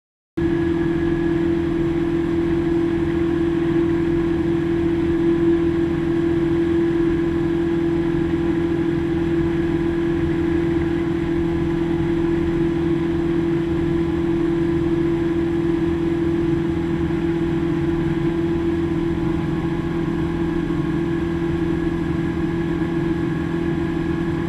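Outboard jet motor of a jet boat running at a steady speed, a constant drone with a steady hum, starting suddenly about half a second in.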